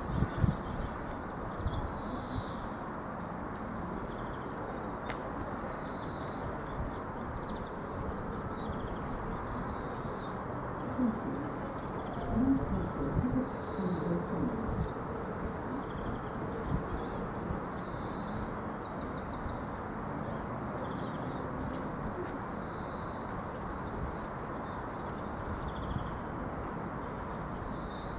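Small songbirds singing, with short high chirping phrases repeated over and over, above a steady low outdoor rumble. A few low hooting notes come in around the middle.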